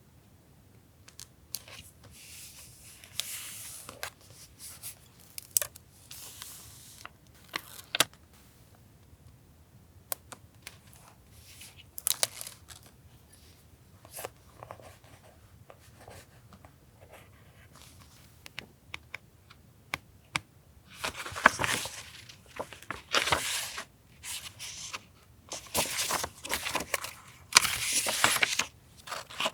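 Paper being handled for a journal collage: scattered light taps and short tears and rustles, becoming louder and longer stretches of paper tearing and crinkling about two-thirds of the way in.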